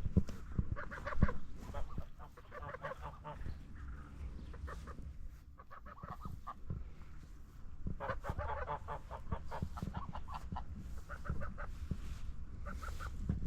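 Domestic ducks calling in quick runs of short quacks, in several bouts, the busiest about eight seconds in, with low knocks and rumble underneath.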